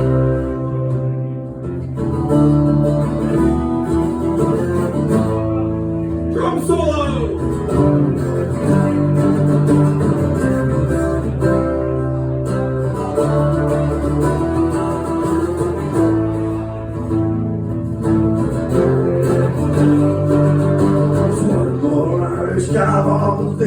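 Live acoustic guitar music: strummed chords carrying on between the song's sung lines.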